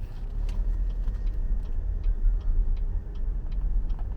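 Car turn-signal indicator ticking steadily, about two or three clicks a second, over the low rumble of the car's cabin.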